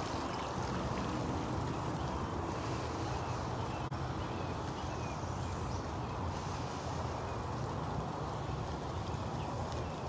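Steady rushing noise of wind across a phone microphone carried on a moving bicycle.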